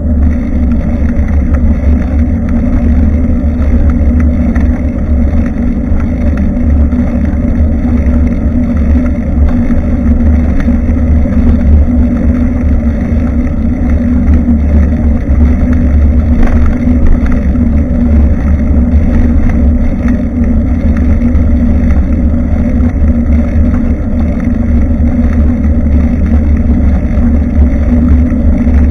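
Steady, loud low rumble of wind buffeting a bike-mounted action camera's microphone while riding, with a constant hum under it.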